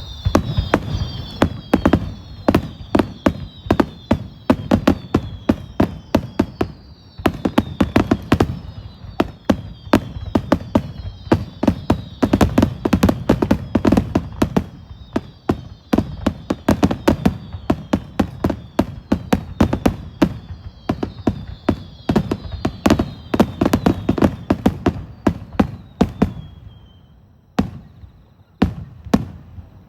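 Fireworks finale barrage: a dense, rapid string of shells bursting with sharp bangs, overlaid with many whistles that fall in pitch. Near the end the barrage thins to a few last single bangs.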